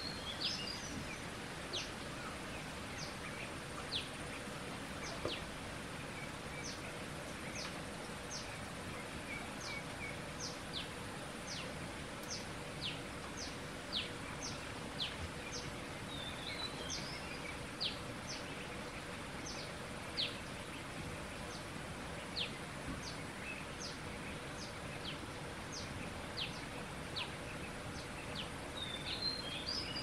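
Forest ambience: a bird repeats a short, high, falling whistle about once or twice a second, with a few bursts of twittering calls from other birds, over a steady background hiss.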